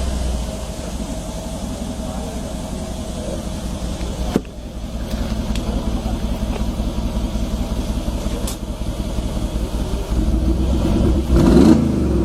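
Mercedes-AMG G63 Brabus twin-turbo V8 exhaust idling with a steady low burble, a sharp click about four seconds in, and a short rev near the end.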